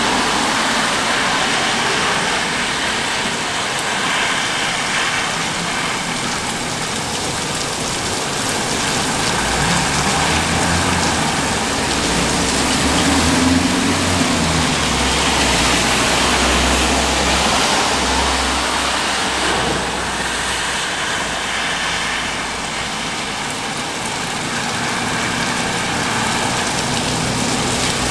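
Rain falling steadily in an even hiss. A low rumble joins about a third of the way in and fades out again about two-thirds through.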